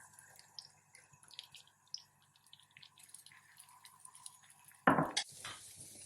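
Light kitchen clicks and clinks, then a sharp, louder clatter about five seconds in, followed by a smaller one.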